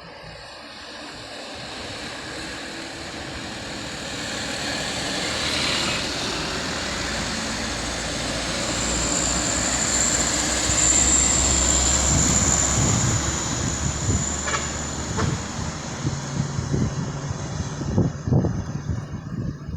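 A train approaching and passing on a sharp bend: a rumble that grows steadily louder, with a high steady squeal for a few seconds midway. It turns uneven, with low knocking and rumbling near the end.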